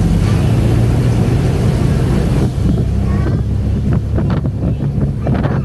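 Airboat engine and propeller running steadily at speed, with wind buffeting the microphone; about two and a half seconds in the high rushing hiss drops off while the low engine drone carries on.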